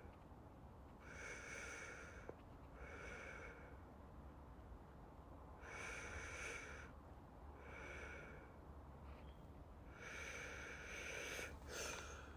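Slow, deep human breathing close to the microphone: three breath cycles, each a longer breath followed by a shorter one, over a faint low hum.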